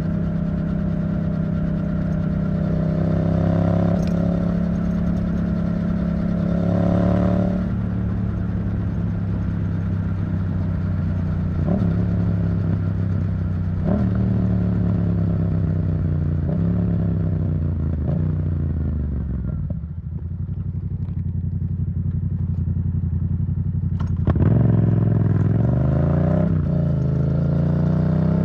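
Yamaha MT-07's 689 cc parallel-twin engine running through an Arrow Thunder titanium exhaust. It holds steady revs with a few brief rev changes, then the revs fall away to a low note about two-thirds through, and it accelerates hard again near the end.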